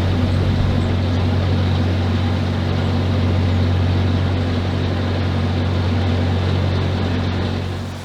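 Narrowboat's diesel engine running at a steady cruising speed, a constant low hum with an even hiss of wind and water over it, cutting off abruptly at the very end.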